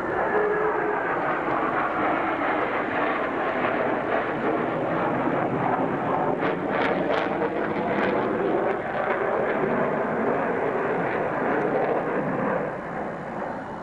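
Loud, sustained roar of a military fighter jet's engines as the jet takes off near the airfield, easing off near the end.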